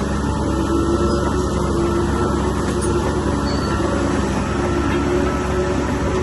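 Diesel engine of heavy earth-moving machinery running steadily, with a slightly wavering engine tone.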